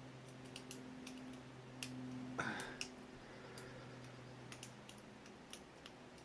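Lock pick working the pins of an ABUS 83AL/45 padlock cylinder: faint, irregular small clicks and taps scattered throughout as the pins are probed and set.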